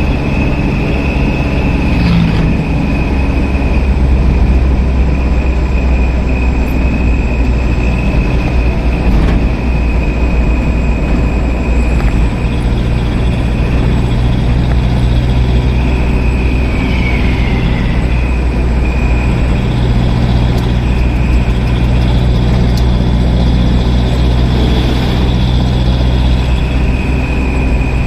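Heavy truck engines running steadily with a deep, continuous drone, held at a standstill.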